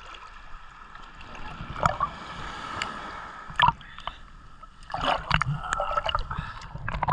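Muffled sea water sloshing and gurgling around a GoPro in its waterproof diving case, with several sharp knocks and splashes against the case, the loudest about two and three and a half seconds in and a cluster around five seconds.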